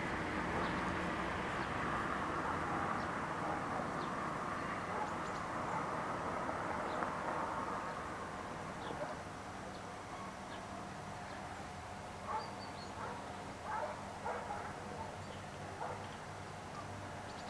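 A steady rumble that fades over the first half, most likely a train moving away from the level crossing. It is followed by a dog barking several times in short bursts near the end.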